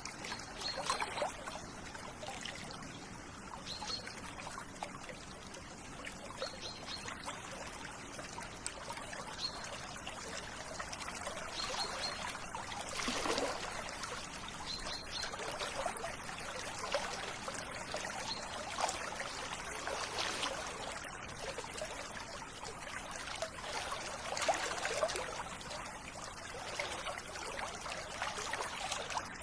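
River water flowing and trickling in a steady rush. A bird's short high call repeats every two to three seconds through the first half.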